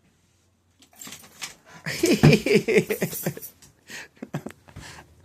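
A dog vocalizing in an excited, wavering grumble that starts about a second in and is loudest for a couple of seconds, followed by a few shorter sounds.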